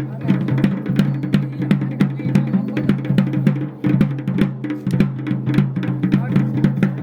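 Drums beaten in a fast, busy rhythm over a steady droning note.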